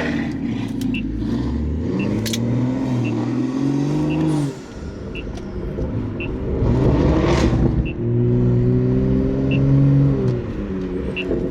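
Ford Mustang GT's 5.0 V8 revved twice through a new MBRP full exhaust. The pitch climbs and holds for a couple of seconds, drops back sharply, then climbs and holds again before settling toward idle near the end.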